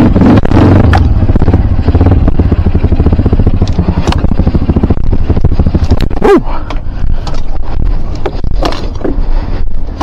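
KLX dirt bike engine running hard on a rough enduro trail, its revs rising and falling, with sharp knocks and clatter from the bike over the ground.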